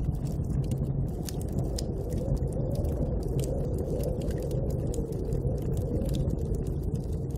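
Steady low rumbling wind of a snowstorm, with a wood fire crackling: many small sharp pops and snaps scattered over the rushing.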